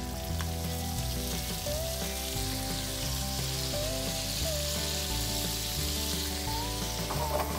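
Fish fillets sizzling steadily in melted butter with ginger and garlic in a frying pan, with background music and its low bass notes underneath.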